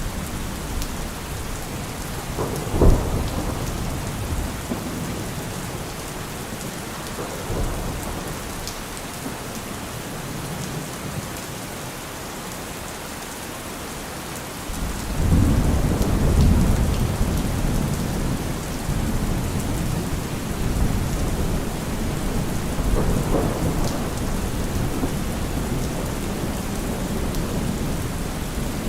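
Steady rain falling on trees and leaves, with a sharp low crack about three seconds in and a deep rumble of thunder swelling up about halfway through, then slowly easing.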